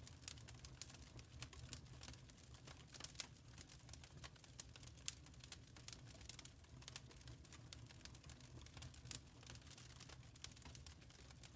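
Wood fire crackling faintly in a fireplace: irregular sharp pops and snaps, several a second, over a low steady rumble of the burning.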